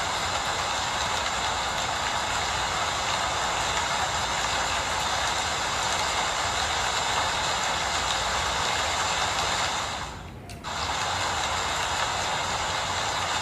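Steady rain falling, a dense, even hiss. It drops away for about half a second roughly ten seconds in, then comes straight back.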